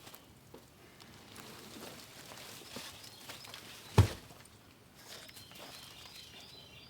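Footsteps and small handling noises around the truck, with one loud thump about four seconds in and a few faint bird chirps near the end.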